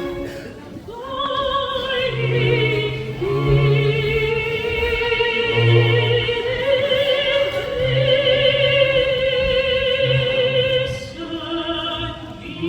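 Music: an operatic singing voice holds long notes with vibrato over a low accompaniment.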